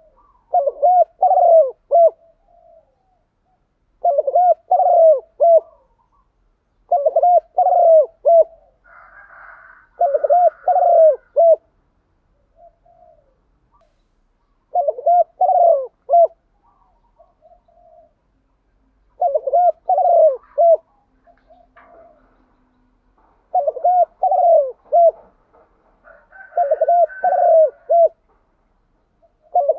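Spotted dove cooing: repeated phrases of several short, low coos, a new phrase every three to four seconds. Faint higher chirping from other birds comes in twice.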